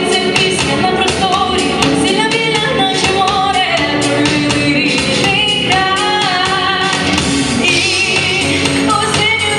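A woman singing a song over instrumental accompaniment with a steady beat.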